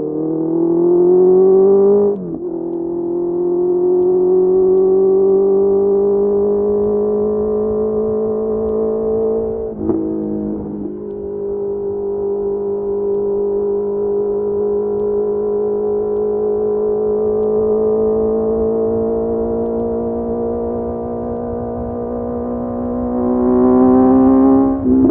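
Honda CBR650R inline-four with a Mivv MK3 slip-on exhaust under way: the revs climb for about two seconds and drop sharply at a gear change, hold at a steady cruise with a short dip about ten seconds in, then climb again near the end and drop at another shift.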